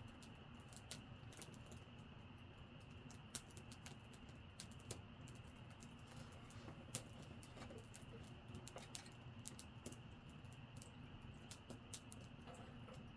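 Wood campfire crackling faintly, with scattered sharp snaps and pops at irregular intervals; a few louder pops stand out.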